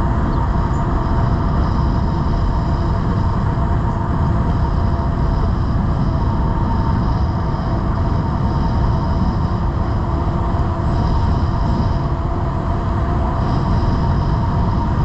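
Cyrusher Kommoda e-bike cruising at a steady speed: wind rushing over the microphone and the hum of the fat 20-inch tyres on pavement, with a steady whine from the electric motor.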